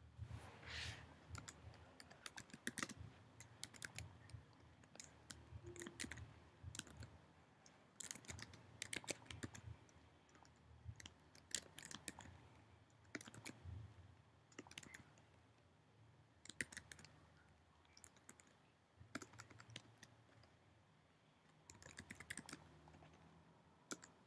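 Computer keyboard typing in short irregular runs of key clicks, with pauses between.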